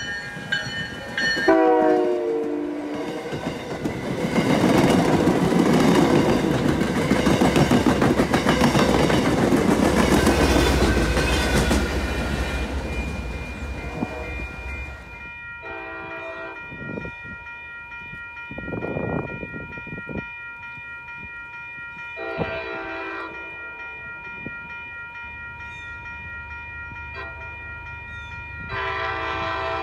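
An MBTA commuter train sounds its horn in short blasts as it approaches, then passes close by with loud wheel and rail noise that fades after about ten seconds. After that a grade-crossing bell rings steadily while another train sounds its horn three times in the distance.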